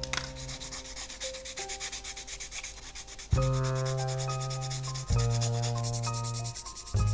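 Sandpaper rubbed over a plastic model part in quick, even back-and-forth strokes, with background music of held notes underneath.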